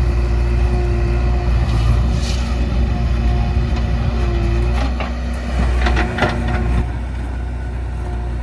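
Backhoe loader's diesel engine running steadily under load, with a run of clanks and rattles about five to seven seconds in.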